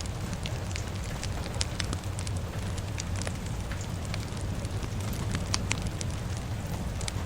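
Crackling fire with rain falling: irregular sharp pops and crackles, several a second, over a steady low rush.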